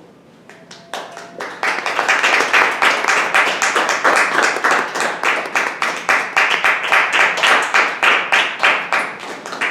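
Audience applauding: a few scattered claps first, growing to full applause within about a second and a half, then dying away at the very end.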